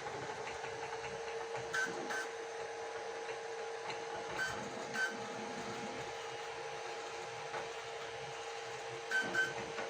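Flsun Super Racer delta 3D printer printing: a steady whine of its motors and fans, with short paired higher chirps from the moving print head three times.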